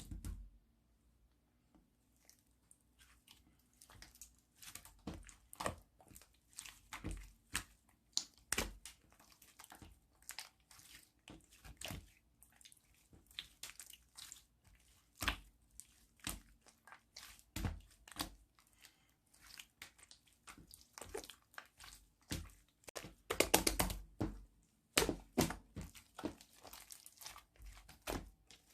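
Slime being squeezed, poked and stretched by hand, making a steady run of small wet clicks and crackles, thickest around two-thirds of the way through and again near the end.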